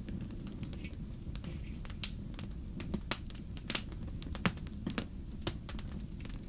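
Wood fire in a fireplace crackling, with irregular sharp pops over a steady low rumble of the flames; a few louder pops come in the middle.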